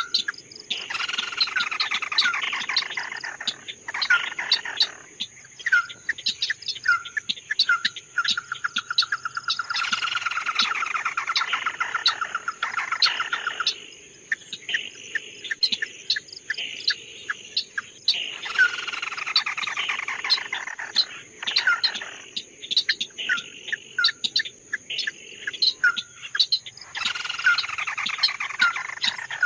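A songbird, the bird called 'red-eyed bird' (chim mắt đỏ), singing: long falling trilled phrases about every eight seconds, with short sharp call notes between them.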